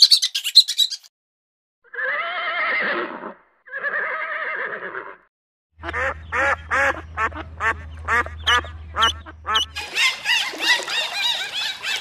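Domestic geese honking, a run of short harsh honks at about three a second, over a steady low hum, thickening into dense overlapping calls near the end. Before them come a few quick high squeaks and two long drawn-out animal calls.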